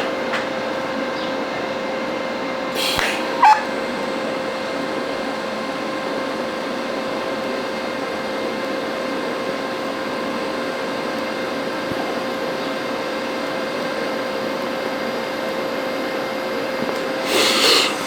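TIG welding arc on stainless steel: a steady buzzing hiss with a faint steady tone, holding at an even level. There is a short click about three and a half seconds in.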